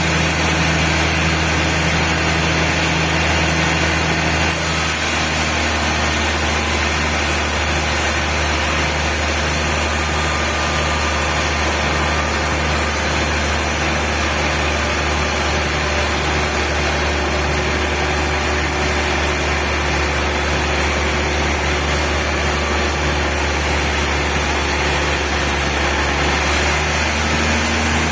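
Sawmill machinery running steadily, a loud constant mechanical drone with a low hum and a faint regular pulse underneath.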